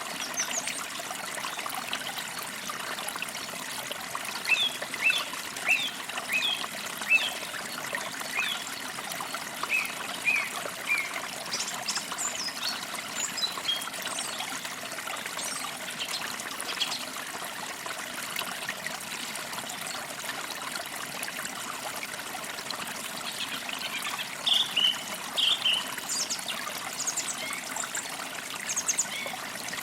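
Forest creek trickling steadily, with small birds chirping over it in runs of short quick notes: a run a few seconds in, more high notes midway, and another run near the end.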